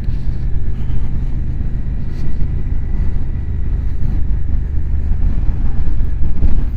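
Motorcycle running steadily on the road, a continuous low engine drone with road noise.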